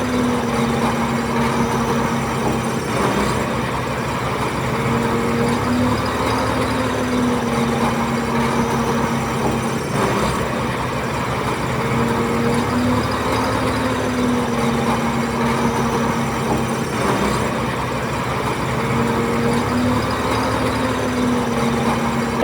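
Heavy diesel engine of earthmoving machinery running steadily, with a steady whine over a fast low rumble.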